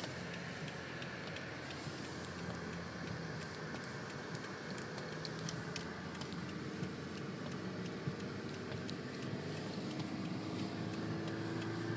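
Car engine running and tyres rolling over a snowy road, heard from inside the cabin, with faint scattered clicks; the engine note rises slowly near the end.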